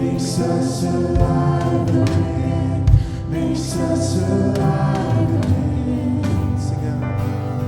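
Church worship band playing a song with voices singing together, with a few heavy low drum hits.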